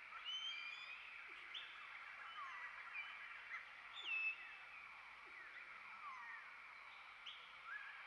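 Several birds calling at once: overlapping short chirps and whistled notes that slide up and down, over a steady high background hum of birdsong, with one louder whistle about four seconds in.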